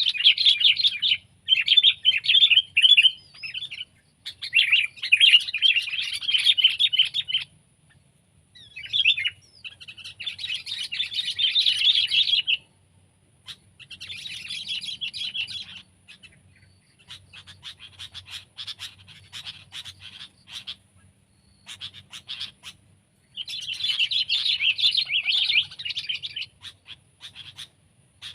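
Sooty-headed bulbul (kutilang) singing in fast chattering phrases of one to three seconds with short pauses between them, and scattered short clicking notes in a quieter stretch in the middle.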